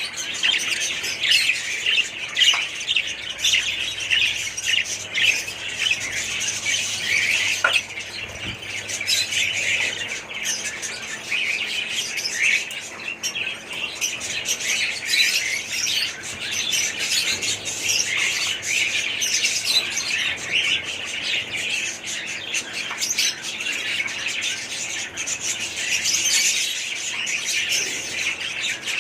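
Many caged budgerigars calling together: a dense, continuous chatter of short, high, overlapping chirps.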